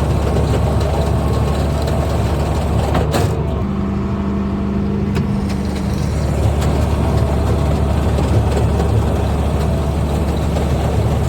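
Farm tractor engine running steadily, powering a feed mixer wagon as it is loaded and mixes cattle feed.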